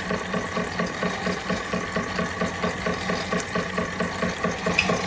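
Empire B42 twin-cylinder toy steam engine running steadily at full steam, beating in a fast, even rhythm of about five beats a second as it drives Wilesco fairground toys. A small tick near the end.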